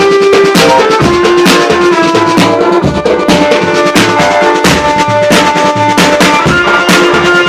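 A live band playing an instrumental passage at a sound check: a steady drum beat under held melody notes.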